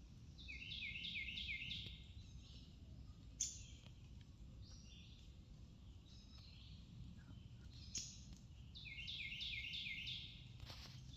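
Faint songbird song: a quick run of about five chirps, heard twice (near the start and again about nine seconds in), with scattered softer chirps between. Two sharp clicks stand out, and there is a low rumble of outdoor noise throughout.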